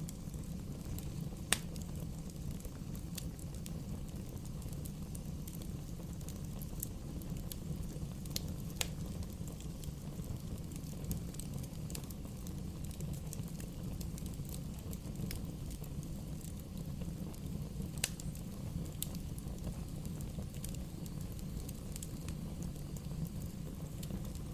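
Bonfire burning with a steady low rumble and scattered crackles and pops, a few of them sharper and louder than the rest.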